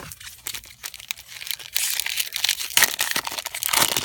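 Foil booster pack wrapper of Pokémon trading cards crinkling and being torn open, the crackle getting denser and louder about two seconds in.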